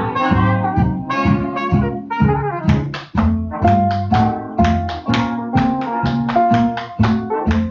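Swing jazz band recording with trumpet, trombone and saxophone over a steady rhythm section; from about three seconds in the band plays short, clipped notes on the beat.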